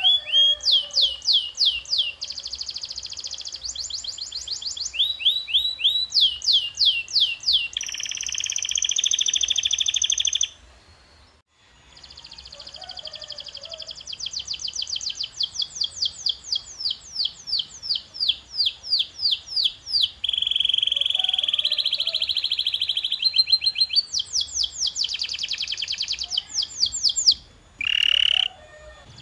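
Domestic canary singing: phrase after phrase of fast repeated down-sweeping notes alternating with sustained buzzy rolls, with a brief break about eleven seconds in.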